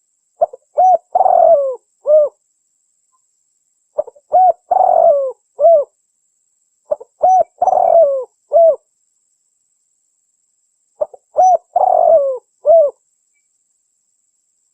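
Spotted dove (tekukur) cooing as a lure call: four phrases a few seconds apart, each made of short coos, a longer rolling coo and a final coo, repeated almost exactly alike.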